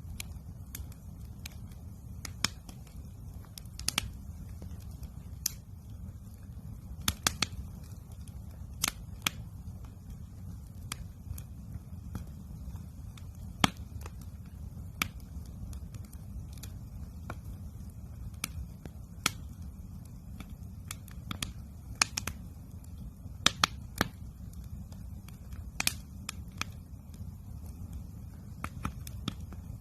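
Wood campfire crackling, with irregular sharp pops and snaps, a few much louder than the rest, over a steady low rumble.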